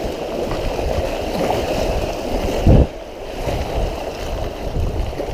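Rushing river rapids around a kayak, a steady churning water noise with wind buffeting the microphone, and a brief low thump a little past halfway.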